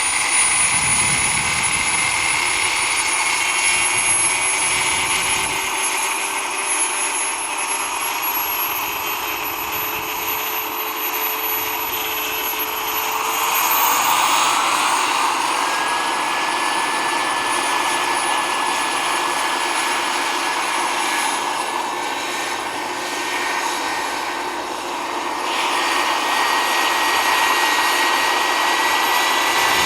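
Wren twin-shaft model gas turbine of a small RC turbine helicopter running with a steady high whine. About halfway through, the whine steps up in pitch. The sound dips briefly and swells again a few seconds before the end.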